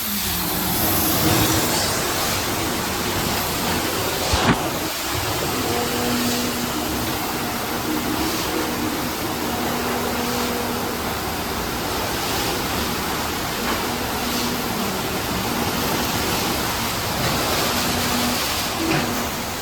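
Sonny's mini-tunnel car wash running: a steady rush of spray and machinery, with a low hum that switches on and off. There is a single sharp knock about four seconds in.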